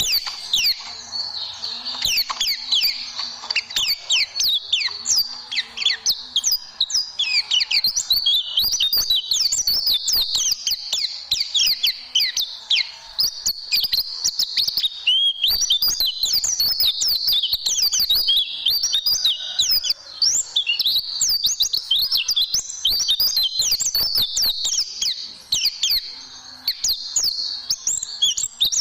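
White-eye (pleci) singing a fast, unbroken stream of high chirps and quick falling whistles, its rapid-fire 'tembakan' song.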